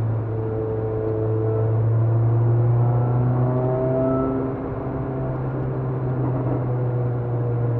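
Peugeot 206 RC's 2.0-litre four-cylinder engine pulling hard, heard from inside the cabin, its pitch rising under acceleration for about four seconds. About halfway through the throttle is lifted and the engine note drops as the car starts to brake for a corner.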